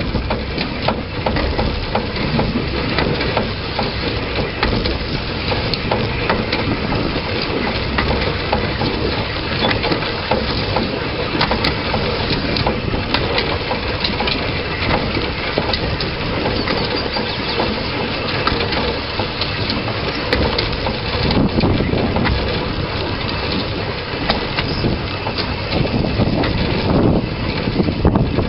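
Narrow-gauge train running along the track, heard from a camera on the front of the locomotive: a steady rattle and rumble of wheels on rail, with many sharp clicks and knocks.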